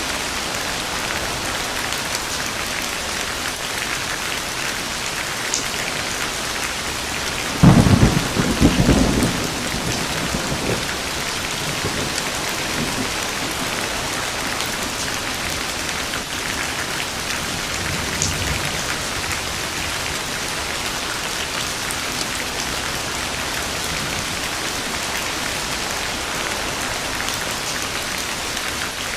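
Steady heavy rain with a thunderclap about a third of the way in, a sudden loud crack that rumbles for about two seconds, and a fainter rumble of thunder some ten seconds later.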